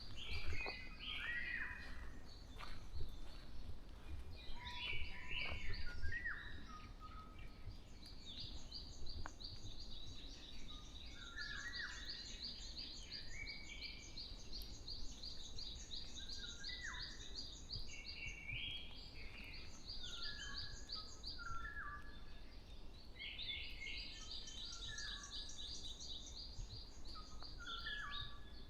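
Several forest birds singing in a dawn chorus: short chirps and whistled phrases from different birds, with a long, rapid, high-pitched trill running through most of the middle and again near the end.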